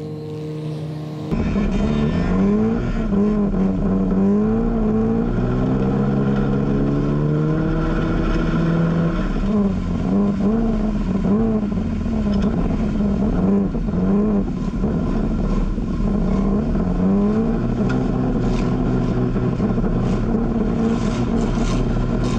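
Race car engine revving, its pitch rising and falling over and over through the gears and corners, with a steady low rumble beneath. It starts abruptly about a second in.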